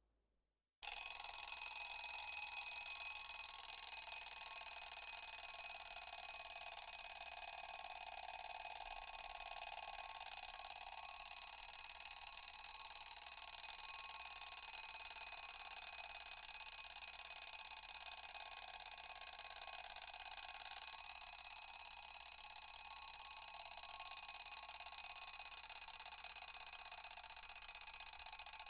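Alarm sound effect: an alarm starts abruptly about a second in and sounds continuously, a steady mix of several high tones, easing off slightly in level toward the end.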